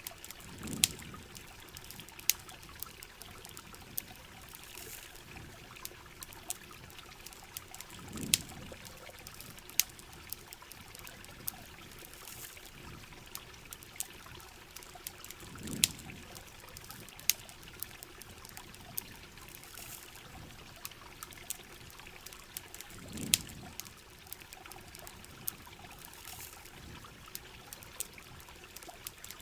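Steady heavy rain hiss with scattered sharp crackles from a campfire, and a soft low swell about every seven and a half seconds.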